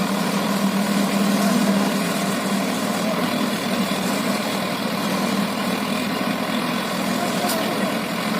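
Heavy diesel engine idling steadily, with a brief faint click near the end.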